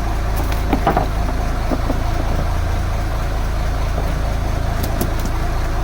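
Fishing boat's engine running steadily at idle, a constant low hum, with a few faint clicks over it.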